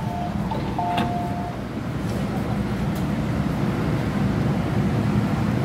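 A two-note falling electronic chime sounds in the first second and a half, then the steady running noise of an MTR M-Train electric multiple unit carries on.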